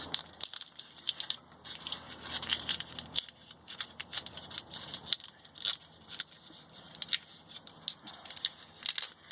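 Plastic split wire loom being wrapped over spliced wires: irregular crackling and clicking as the ribbed plastic flexes and snaps into place.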